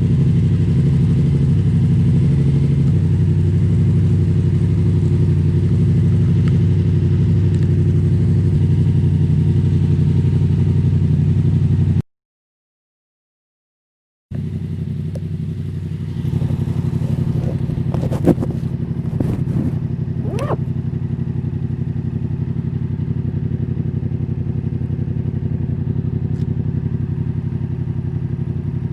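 Yamaha Tracer 700's parallel-twin engine running at a steady speed. The sound cuts out completely for about two seconds partway through, then comes back with a few brief clicks and rattles.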